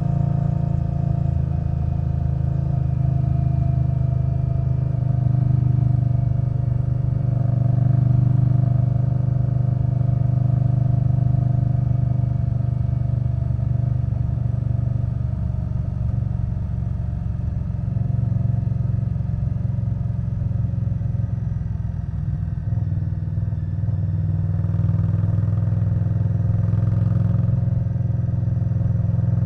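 Indian Scout Bobber Twenty's 1133 cc V-twin running through Vance & Hines Twin Slash slip-on mufflers while under way. The engine note holds steady, rising and falling a few times with the throttle.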